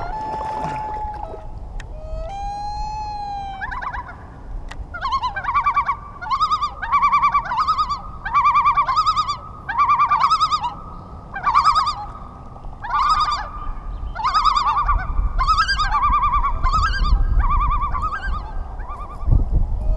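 A bird calling over and over: one longer call about two seconds in, then from about five seconds in a quick run of short warbling calls, a little over one a second, until near the end.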